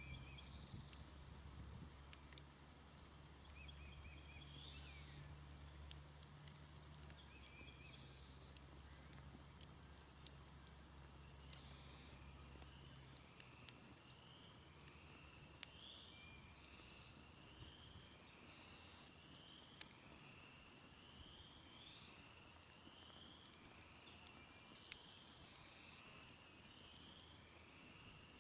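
Faint campfire-side countryside ambience: birds calling, with one bird repeating a short slurred chirp about once a second through the second half, and scattered sharp crackles and pops from a smoldering campfire. A low distant hum runs under the first half and stops about halfway through.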